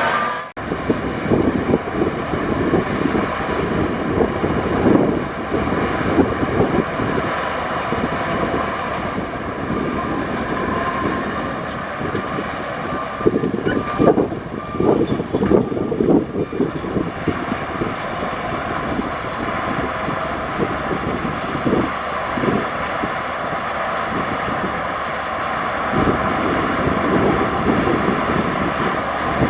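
Diesel engine of heavy earthmoving machinery running steadily, with irregular metallic clanks and rattles throughout.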